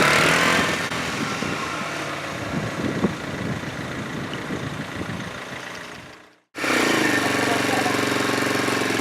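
Motorcycle engine running amid heavy noise. After a brief cut about six and a half seconds in, the engine idles steadily, its pitch settling just after the cut.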